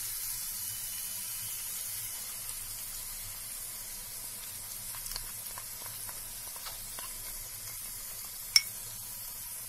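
Onions, green chillies and ginger-garlic paste frying in hot oil in a kadai, sizzling steadily. A few light clicks and one sharp click near the end as the masala paste is scraped in with a spoon.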